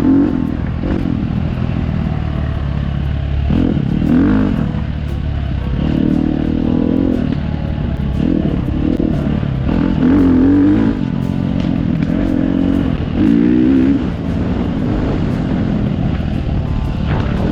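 Dirt bike engine under way on a trail, revving up and easing off over and over, its pitch climbing and dropping every second or two, with scattered clicks from the rough ground.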